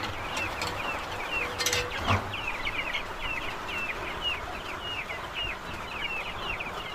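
Young chickens peeping without a break, several short falling chirps a second, over the steady hiss of heavy rain. A single sharp click comes nearly two seconds in.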